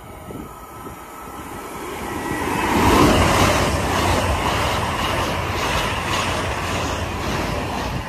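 LNER Azuma high-speed train passing straight through the station at speed. It rises as it approaches, is loudest about three seconds in, then holds as a steady rush of wheels and air while the carriages go by.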